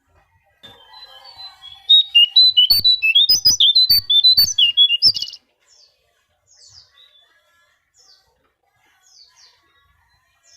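Konin bird song: a loud run of rapid, high, warbling chirps lasting about three and a half seconds, followed by soft single high chirps, each falling in pitch, about once a second.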